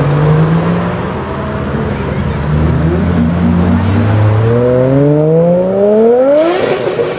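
Modified Nissan Silvia's engine revving under acceleration, its pitch rising steadily over the last few seconds, with a brief loud hiss near the end as the revs peak.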